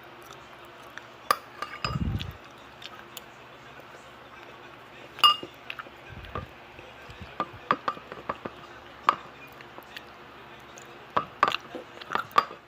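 Slime being handled and squished, making scattered sharp clicks and pops, with two dull thuds about two and six seconds in.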